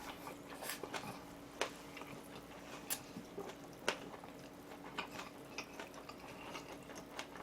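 Quiet chewing while eating, with scattered small clicks and mouth sounds about once or twice a second.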